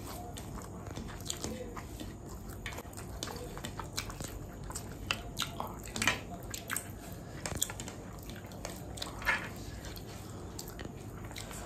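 Close-up eating sounds: irregular wet smacks and small clicks of someone chewing a mouthful of fried rice and chicken, over a steady low hum.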